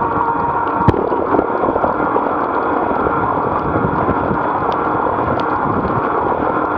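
Steady wind rushing over the microphone with road noise from a bicycle ride in typhoon weather, with a sharp knock about a second in.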